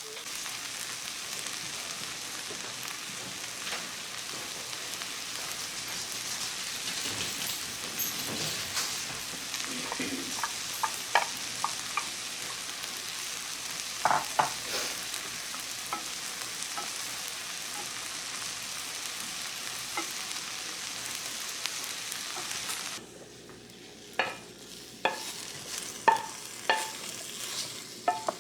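Food sizzling steadily in a hot frying pan, with a few sharp clinks of a utensil against the pan. About five seconds before the end the sizzle drops away suddenly, leaving only the clinks.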